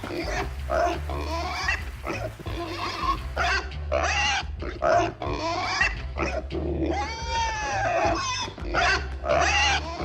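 Pig-like grunting and squealing, run together in quick talk-like phrases as a pig character's voice, over a low steady bass drone.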